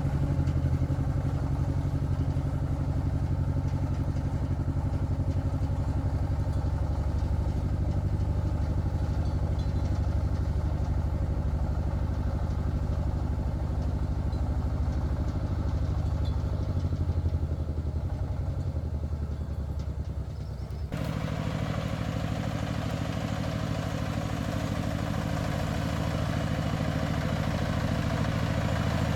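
Single-cylinder diesel engine of a công nông farm cart running with a steady low chugging; its sound changes abruptly about two-thirds of the way through.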